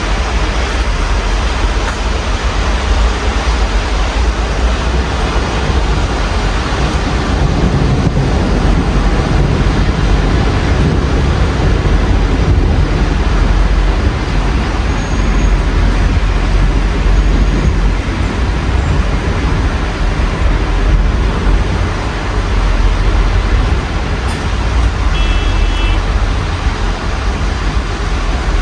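Steady rain with road traffic through an open window: an even hiss of rain over a constant low rumble of passing vehicles.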